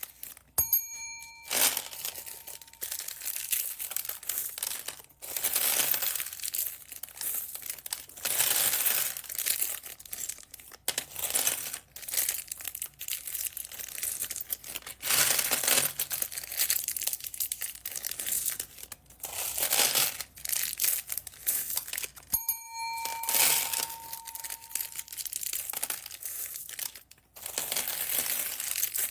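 Plastic packaging bags crinkling and rustling in irregular bursts as they are handled and opened. A short bell-like chime rings out twice, about a second in and near the three-quarter mark.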